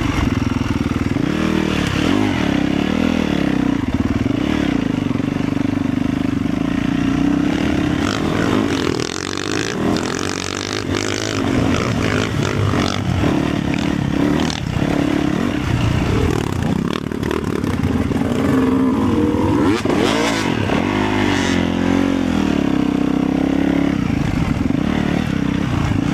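Off-road motorcycle engine running under way, its pitch rising and falling with the throttle, eased off briefly about a third of the way through, with scattered clattering knocks.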